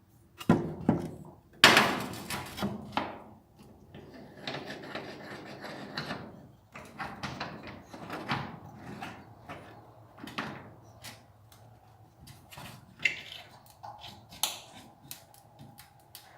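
Irregular workshop handling noise: a string of sharp knocks and clatter, two loud ones in the first two seconds, with stretches of scraping or rubbing between them.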